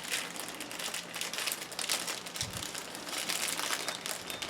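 Rustling and light clicking from hands handling small starter-motor parts while a gasket is swapped, with one soft low bump about halfway through.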